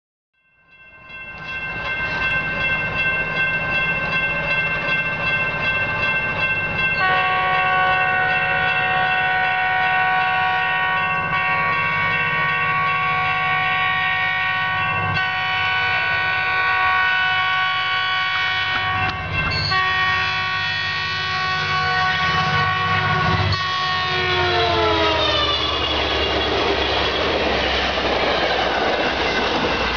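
Metrolink commuter train sounding its horn in a series of long chord blasts as it approaches the grade crossing. The horn's pitch drops as it passes, about 24 seconds in, followed by the steady rumble and clatter of the passing passenger cars.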